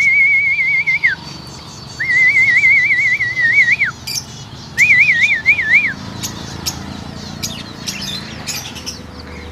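A warbling whistle with a fast, even trill, sounded in three phrases in the first six seconds, then short, faint bird chirps and clicks.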